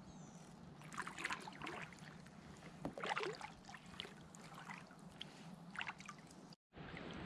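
Kayak paddle strokes: the blade splashing into and through the water, with drips trickling off it, a stroke about every two seconds. The sound cuts out completely for a moment near the end.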